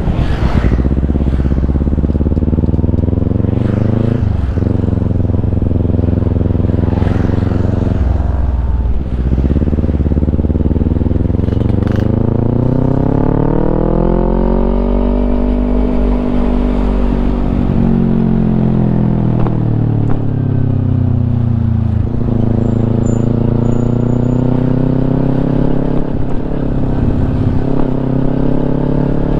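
Kawasaki Ninja 250's parallel-twin engine running through a Yoshimura aftermarket exhaust while riding. The engine note climbs and drops sharply with gear changes about four and eight seconds in, then swells slowly up and back down, and climbs again near the end.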